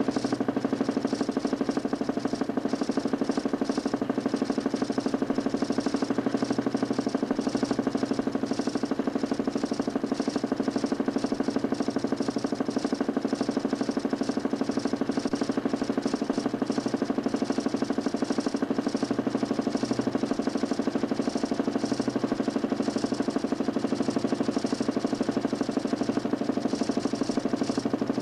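DC motor spinning the 40 cm plywood Nipkow disc of a homemade mechanical television, running steadily with a fast, even pulsing drone.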